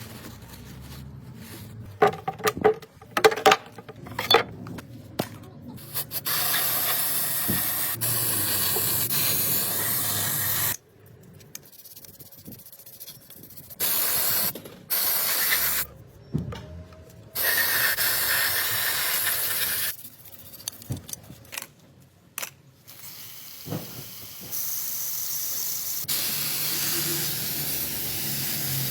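Pressurised spray hissing in several long bursts of about two to four seconds each, with clicks and knocks of handling in the first few seconds and between the bursts.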